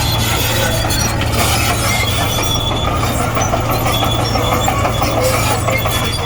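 Komatsu D58E crawler bulldozer working: its diesel engine runs steadily under continual squeaking and clatter from the steel tracks.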